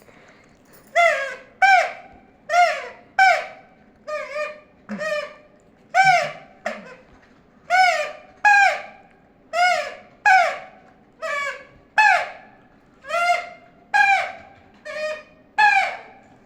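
Pet parrot giving a long run of short, trumpet-like honks, one or two a second, each swelling and then bending down in pitch. Its owner calls this mimicry playing the baaja (a horn).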